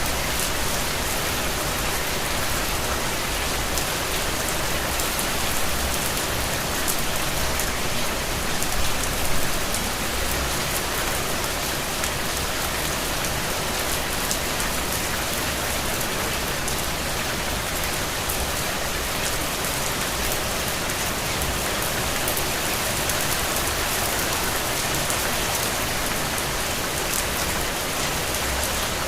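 Steady heavy rain falling on a surface, a dense even hiss with many individual drop hits.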